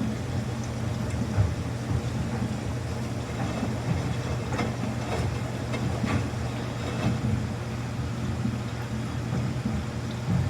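Samsung front-loading washing machine running a quick-wash cycle with a load of towels: a steady low hum from the drum and motor, with a few faint light clicks in the middle.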